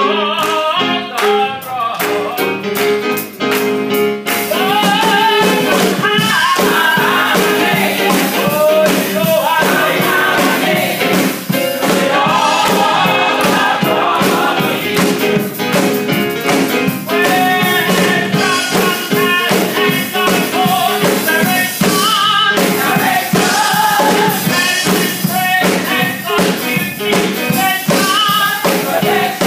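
Gospel song: lead and choir voices singing over a band with a steady beat. The music fills out about four seconds in.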